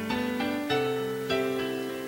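Piano playing the slow intro of a ballad, notes and chords struck about every half second and left ringing.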